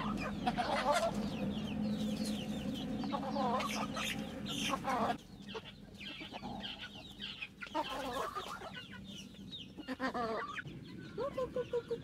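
Chickens clucking and chirping, with a quick run of repeated low clucks near the end. A steady low hum runs under the calls and stops abruptly about five seconds in.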